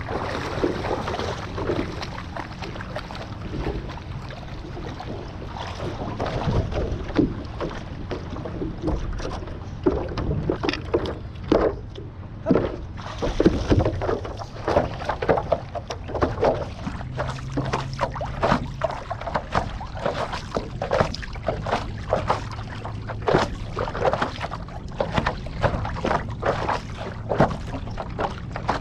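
Paddle strokes through water, with irregular splashes and drips, over a low steady hum.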